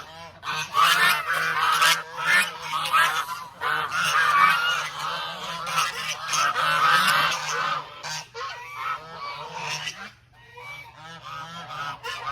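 A flock of domestic geese honking, with many calls overlapping; the honking is densest for about the first eight seconds, then thins out.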